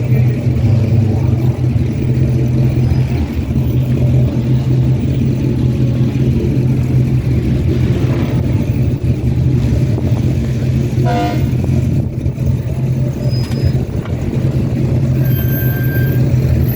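Car engines rumbling steadily, with a short horn toot about eleven seconds in.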